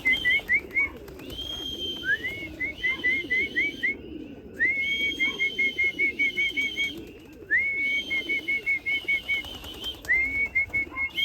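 A whistled pigeon recall call repeated about five times: each call a rising note followed by a quick run of short warbled notes. Pigeons coo softly underneath.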